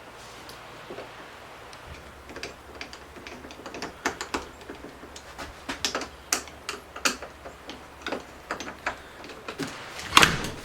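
Irregular small metal clicks and taps from handling and fitting a new doorknob and deadbolt, a few a second, with a louder clunk near the end.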